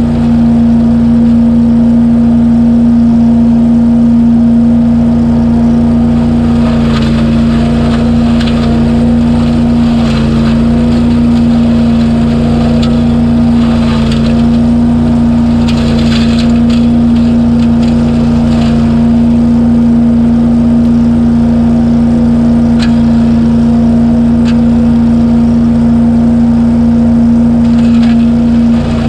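BillyGoat debris loader running at a steady high speed, a loud constant engine-and-fan hum. Wet leaves are sucked through its hose in spells of rattling and rustling through the middle.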